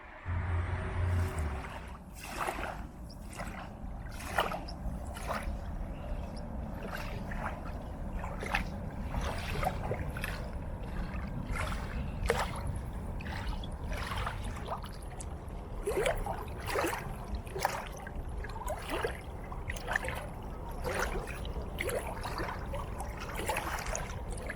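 Running water trickling and splashing: a steady low rush with frequent irregular splashes.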